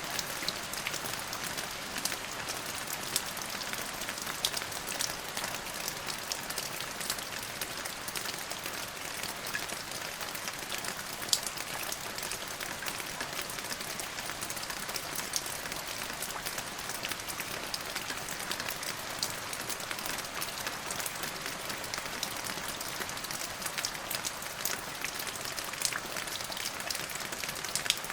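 Steady rain falling, a continuous hiss with many individual drops ticking on a hard surface.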